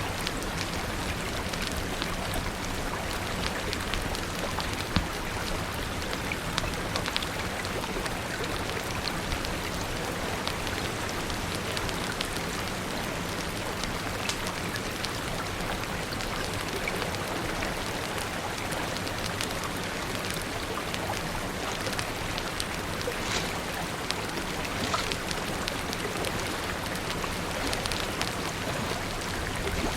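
Steady rain falling, with many small sharp drop ticks scattered through it.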